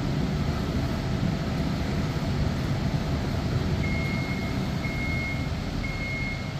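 A commercial Electrolux Professional laundry machine running with a steady low rumble; about four seconds in, its end-of-cycle signal starts, a single high beep repeated in long pulses, signalling the cycle has finished.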